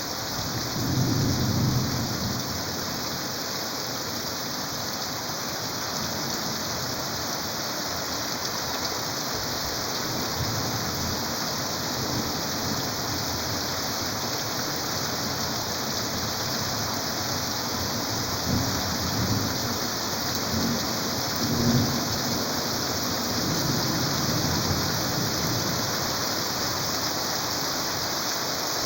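Heavy rain pouring steadily, with a few low rumbles of thunder about a second in and several more in the second half.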